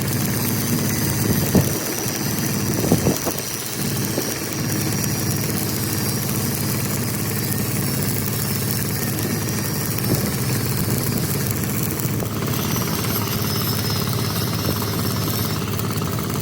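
An engine idling steadily, with a few sharp knocks about a second and a half and three seconds in.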